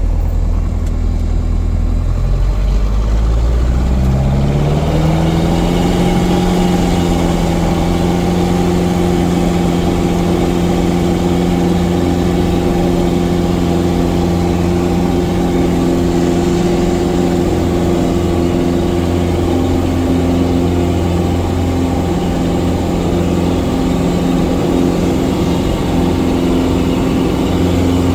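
Cessna 177 Cardinal's piston engine and propeller running. Its pitch climbs over a few seconds as power comes up, then holds steady at high power.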